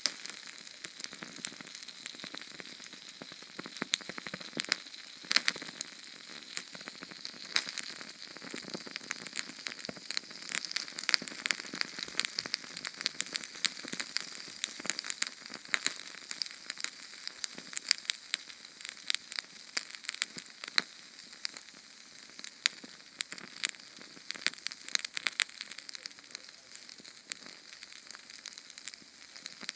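Small Sterno canned-fuel flame burning with constant fine crackling and sizzling: many rapid little pops over a steady hiss.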